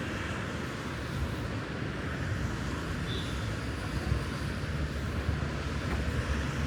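Steady city street noise: a low, continuous rumble of vehicle traffic with general urban hiss and no single sound standing out.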